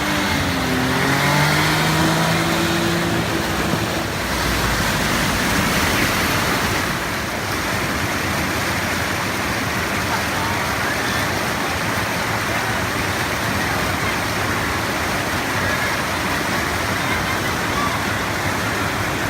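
Floodwater rushing across a road in a steady wash of noise. A low engine hum rises slightly over the first few seconds and then fades into the water.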